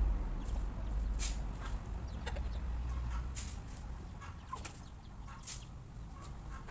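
Chickens clucking softly as they feed, with scattered short sharp clicks over a steady low rumble.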